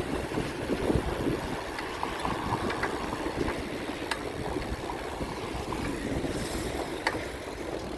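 Wind buffeting the microphone during a bicycle ride, a steady rough rush with low rumble, and two sharp clicks about four and seven seconds in.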